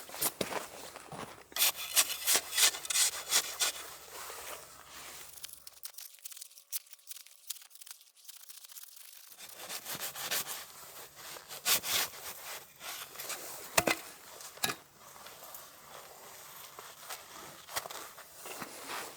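Packed snow being scraped and crunched in repeated strokes, loudest in a quick run a couple of seconds in, with a quieter break about halfway through.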